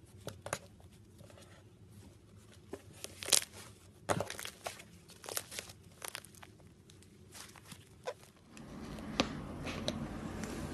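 Slime being squished and pulled by hand, giving irregular sharp crackles and pops. From about eight and a half seconds in, a steady hiss rises behind a few more pops.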